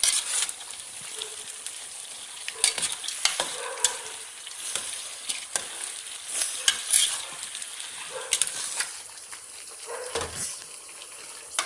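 Chicken pieces frying in oil in a pot and being stirred with a spoon. A steady sizzle runs throughout, with scattered clicks and scrapes of the spoon against the pot.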